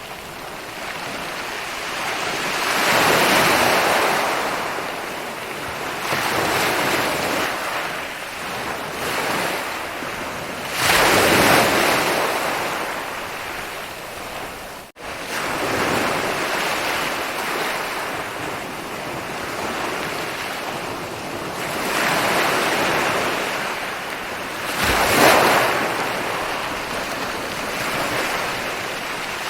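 Ocean waves rolling in and washing up a beach, a steady rush of surf that swells every few seconds, with stronger breakers a few seconds in, around a third of the way through and twice near the end. The sound cuts out for a split second about halfway through.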